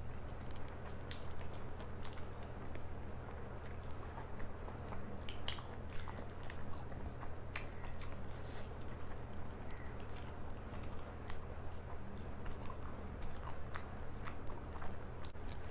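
A person chewing soft, saucy food close to the microphone, with many short wet smacks and clicks from the mouth. A steady low hum sits underneath.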